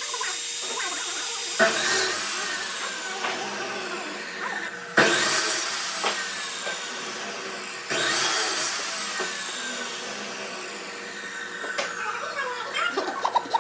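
A power tool working wood, a steady whirring noise that jumps abruptly louder three times, each time easing off with a slowly falling whine.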